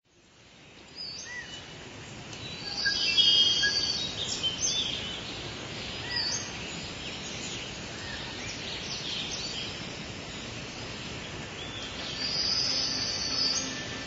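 Birds chirping and calling in many short notes over a steady outdoor background hiss, fading in over the first second.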